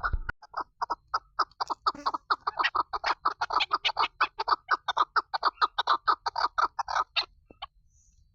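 Female chukar partridge (chakor) calling: a rapid run of short, sharp notes, about four a second at first and quickening to about six a second, stopping abruptly about seven seconds in.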